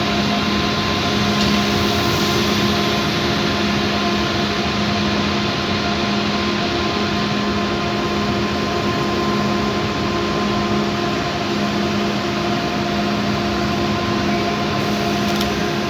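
Steady hum of a train's machinery: several fixed tones over an even rushing noise, unchanging throughout.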